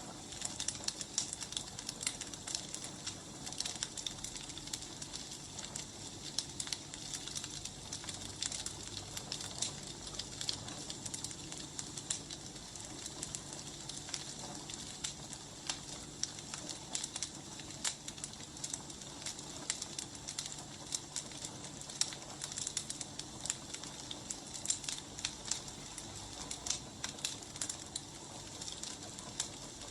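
Wood fire crackling steadily, with frequent irregular snaps and pops over a soft hiss.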